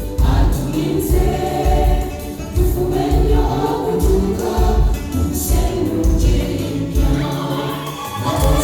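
Gospel choir singing, backed by music with a steady beat in the bass.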